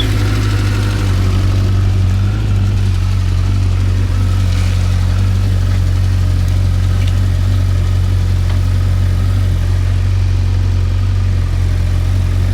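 Suzuki GSX1250FA motorcycle's inline-four engine idling steadily.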